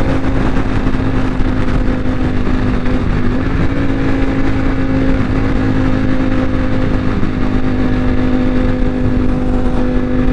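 Motorcycle engine holding a steady cruise, with heavy wind noise. Its pitch dips briefly about three seconds in and climbs slowly near the end.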